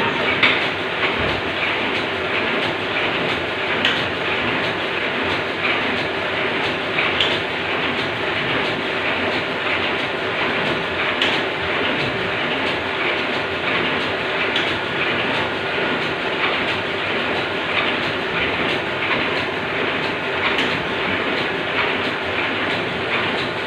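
Steady mechanical clatter of running machinery, with faint irregular clicks over a constant hum.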